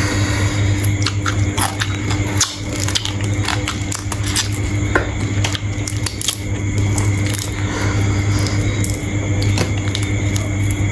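A person eating sea shrimp close to the microphone: irregular crunching and cracking clicks of shells being bitten and chewed, with some squishy chewing, over a steady low hum.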